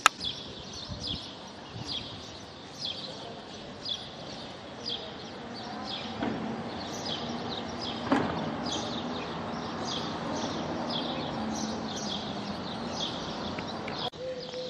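A small bird chirping over and over, about once a second at first and more often in the second half, over outdoor street background that grows louder about halfway through. A single sharp knock sounds about eight seconds in.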